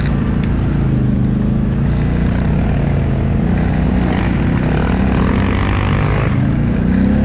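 ATV engine running under way, steady, with a rushing hiss building from a few seconds in that cuts off suddenly. The engine note rises again near the end.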